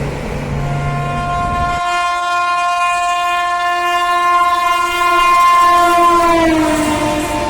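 Express train running through a station at high speed, its horn sounding one long blast that drops in pitch near the end as the train passes.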